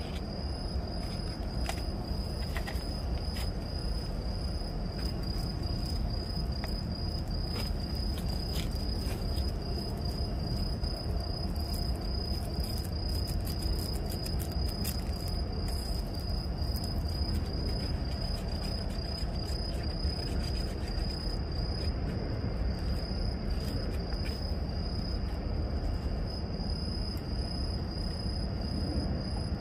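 A cricket chirping in an even, unbroken string of short pulses, over a steady low rumble, with a few faint clicks in the middle.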